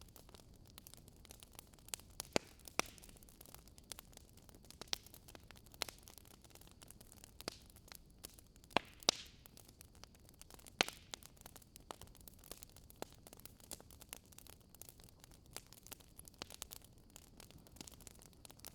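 Burning firewood crackling in a fireplace: irregular sharp snaps and pops over a faint steady hiss, with a few louder pops around two seconds in, about nine seconds in, and near eleven seconds.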